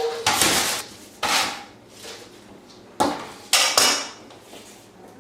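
Crispy baked chicken wings clattering and scraping against a dish as they are handled and tossed, about five short clatters with a pause in the middle.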